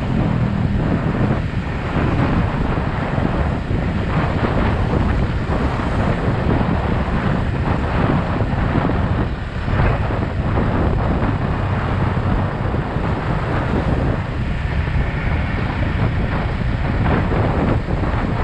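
Heavy wind buffeting on the camera microphone while riding a Yamaha XSR 155, its 155 cc single-cylinder engine running underneath the steady rush of air.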